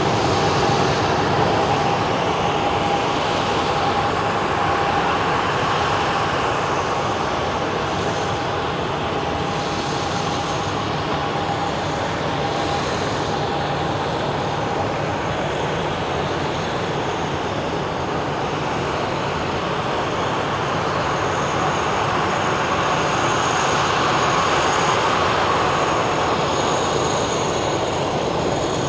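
Steady drone of an engine, with a faint high whine that fades out about halfway through.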